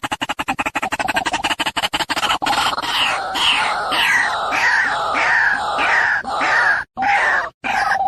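White-breasted waterhen (ruak-ruak) chick calling for its parent: a fast run of clicking pulses for about two seconds, then a series of harsh, falling notes repeated two to three times a second, broken by two short gaps near the end.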